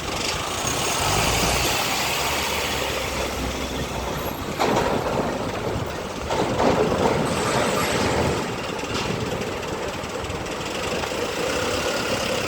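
Heavy diesel truck engines running and moving past, a steady low rumble with tyre and road noise. It swells louder about four and a half seconds in and again around six to seven seconds.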